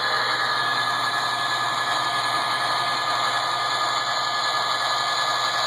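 Radio-controlled model train locomotive running steadily around the track: an even mechanical hum and rattle with a couple of steady high tones, with no change in speed.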